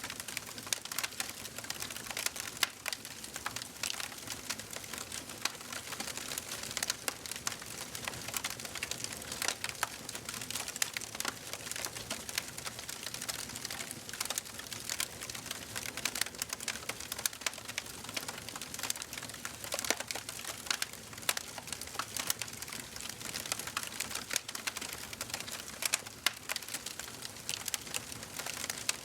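Wood fire crackling in a fireplace: dense, irregular snaps and pops over a steady hiss of burning.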